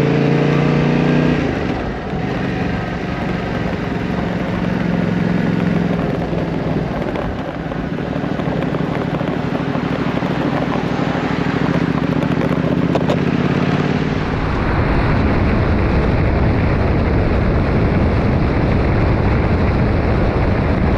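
Yamaha Ténéré 700 parallel-twin engine pulling away with rising revs, then running steadily under way. About fourteen seconds in, wind buffeting on the microphone takes over.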